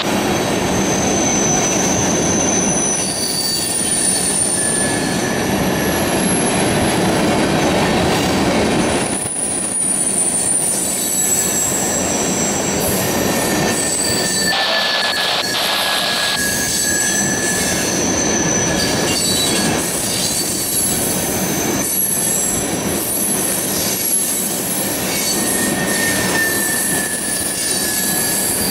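Freight train of tank cars rolling past, a steady rumble of steel wheels on rail with thin high-pitched wheel squeals coming and going.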